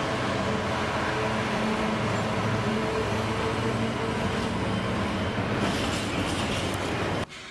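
Diesel train running close by: a steady drone with several held low engine tones over rail noise. It cuts off abruptly near the end.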